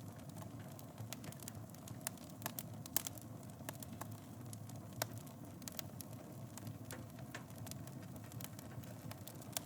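Wood fire burning in a fireplace, crackling with irregular sharp pops over a steady low rush of flame; the loudest pops come about three and five seconds in.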